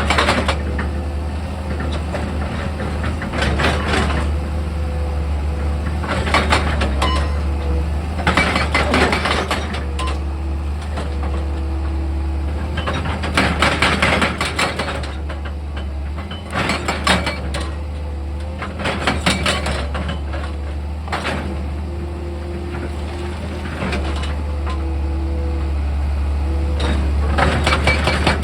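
Heavy diesel machine engine running steadily, with repeated bursts of clattering and knocking every few seconds, as rock and metal strike together.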